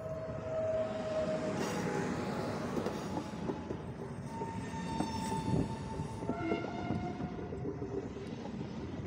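PKP Intercity Pesa Dart (ED161) electric multiple unit rolling past at the platform: a steady rumble with clicking wheels and a few held whining tones that change pitch partway through.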